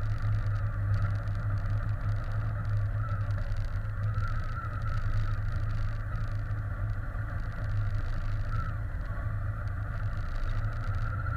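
Steady running noise of a bike on the move: a constant low rumble with a whine that wavers in pitch, dips briefly and climbs again near the end.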